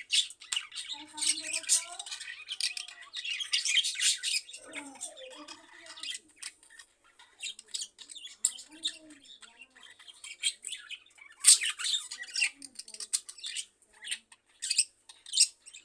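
Budgerigars chattering: a busy, irregular stream of short high chirps and scratchy squawks, several birds calling over one another.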